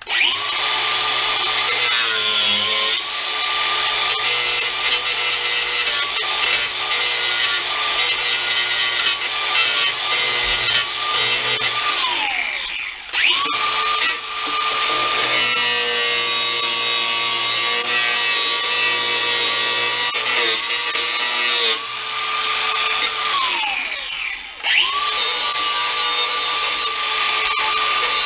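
DeWalt DCG412 18V cordless angle grinder cutting through the sheet-steel lip of a car's inner wheel arch. It gives a steady high whine with a gritty rasp. About 12 s in and again about 23 s in, the motor winds down with a falling whine, then starts up again about a second later.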